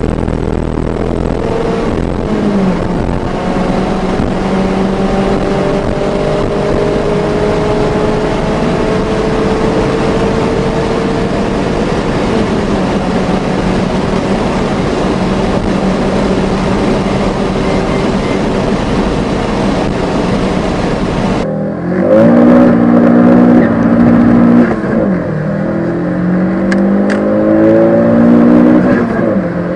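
Small sporty petrol hatchback accelerating hard through the gears, its engine note climbing slowly under heavy road and wind noise, with a gear change about three seconds in. About two-thirds of the way through the sound cuts abruptly to another car's engine revving up quickly, its pitch dropping at two gear changes.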